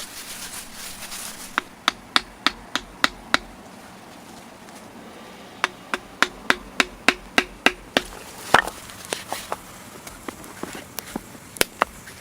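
Hand tool striking wood in quick, even blows, about three a second, in two runs of seven to ten strikes, with a few scattered strikes near the end.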